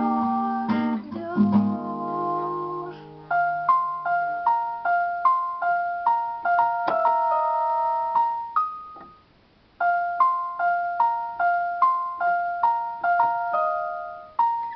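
Solo instrumental music. Ringing chords for about three seconds give way to a melody of single high notes, played as a repeating phrase twice with a short pause between.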